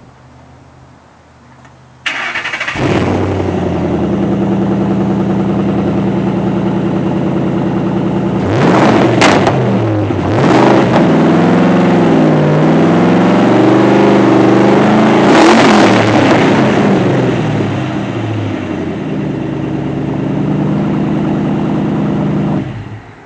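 A 2008 Ford Mustang GT's 4.6-litre V8 through a Pypes H-pipe and mid-muffler-back exhaust starts about two seconds in and settles into a loud, lumpy idle. It is blipped and revved several times in the middle, returns to idle, and is shut off near the end.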